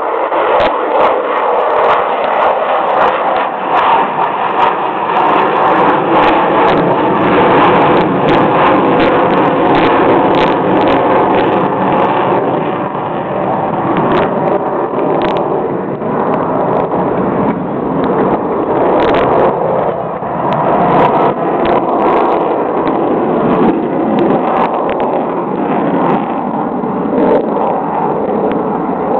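An Avro Vulcan's four Rolls-Royce Olympus jet engines at high power during a display pass, giving the loud, steady "Vulcan howl" that the aircraft is famous for.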